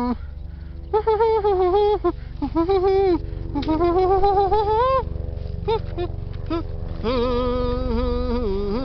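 A voice sings or hums long wavering notes with pauses between them, one note sliding upward near the middle, with short blips a little after. A steady low rumble runs underneath.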